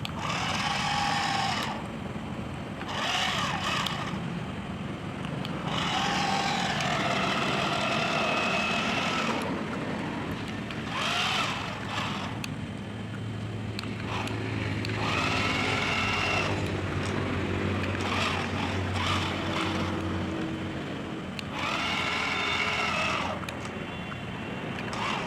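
Small electric motor and gearbox of a remote-control toy tractor whining in about six bursts, several rising in pitch as it speeds up, while it pulls a fully loaded trolley.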